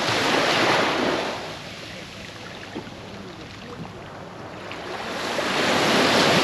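Ocean surf breaking on the beach: a wave surges in about a second in, the wash drops back, and a second wave builds and breaks near the end.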